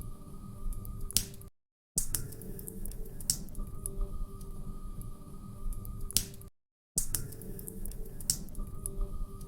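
Log fire crackling in a fireplace: a steady low rustle with frequent sharp snaps and a few louder pops, over a faint steady hum. The sound cuts out completely twice for under half a second, about five seconds apart.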